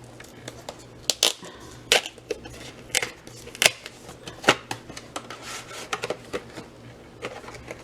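Craft stamp and die packaging being handled and opened: irregular sharp clicks and crinkles.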